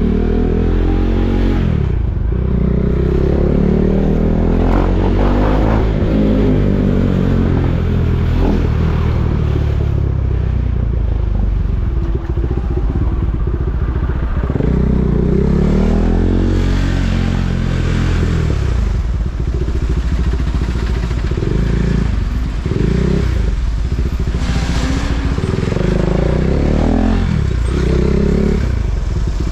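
KTM Duke 390's single-cylinder engine running in stop-and-go riding. It repeatedly revs up and eases off, so the pitch rises and falls several times over a steady low rumble.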